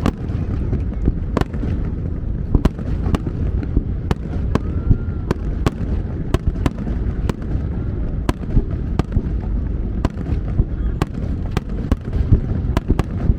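Aerial fireworks exploding: an irregular run of sharp bangs, roughly two a second, over a continuous low rumble of overlapping booms.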